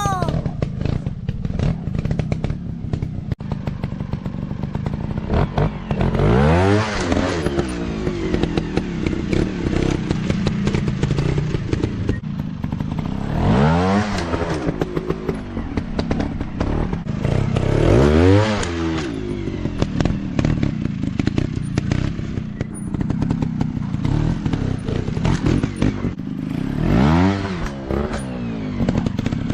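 Dirt bike engines running, revved hard four times, each time the pitch climbing and then falling back.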